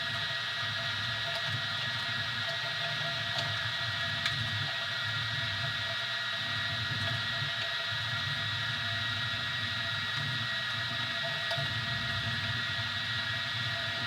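Easythreed X2 desktop 3D printer running a print: a steady whine from its motors and cooling fan over a low hum that wavers with the moves, with a few faint ticks.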